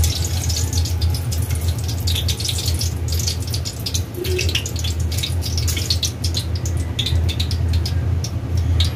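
Eggplant omelette patties frying in hot oil in a metal wok: continuous sizzling thick with small crackles and pops, over a steady low hum.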